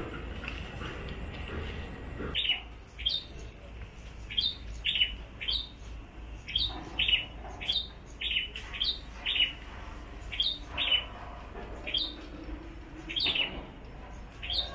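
A bird chirping over and over, starting about two seconds in: short notes that slide down in pitch, about two a second.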